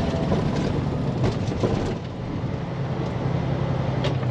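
Diesel truck engine heard from inside the cab while the driver downshifts the 10-speed manual transmission without using the clutch. The engine sound dips briefly about two seconds in, then the steady hum picks up again as the lower gear goes in.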